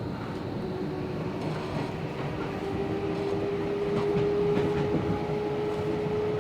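Tobu 70000 series electric train running, heard from inside the car: a steady rumble of wheels and running gear. About half a second in, a thin steady whine from the VVVF traction motor drive comes in, rising slightly in pitch and growing stronger.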